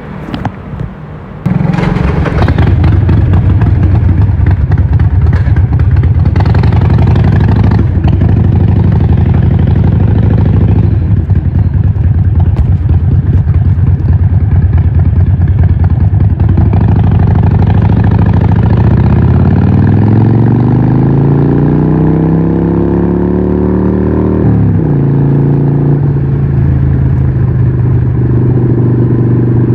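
Harley-Davidson 1200 Nightster's Evolution V-twin with a Vance & Hines exhaust running loud, close to the microphone. It jumps suddenly in level about a second and a half in and runs as a steady low rumble. Past the middle the engine note climbs steadily for several seconds, then drops sharply, as at a gear change, and holds steady.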